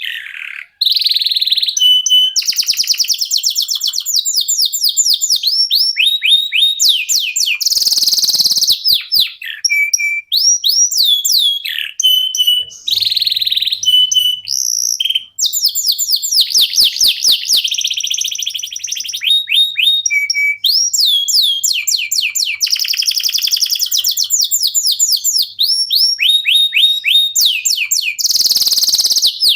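Domestic canary singing a long, continuous song: fast trills of repeated downward-sweeping notes, a few harsh buzzy phrases and short pauses between runs.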